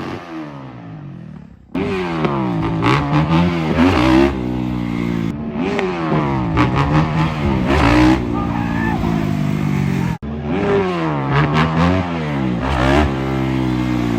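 Kawasaki KX450 dirt bike's four-stroke single engine revving up and down over and over as it is ridden, pitch rising and falling with the throttle. It starts quieter, comes in louder about two seconds in, and briefly drops out about ten seconds in.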